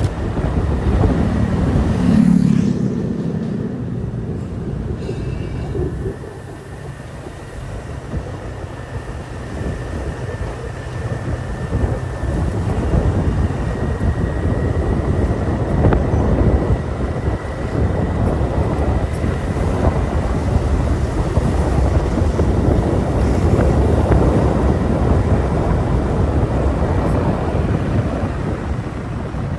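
Motorbike ride: the bike's engine running with wind and road noise. It eases off about six seconds in and then builds up again, with a faint steady whine through the middle stretch.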